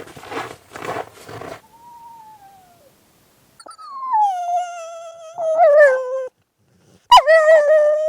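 A dog howling: after a faint falling whine about two seconds in, two long drawn-out howls, the first about three and a half seconds in and the second about seven seconds in, each sliding down from a higher note to a held lower one. Before that, a short run of scuffing noises.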